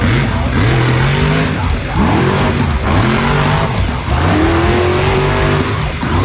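Engine revving repeatedly, its pitch sweeping up and falling back about once a second, with music underneath.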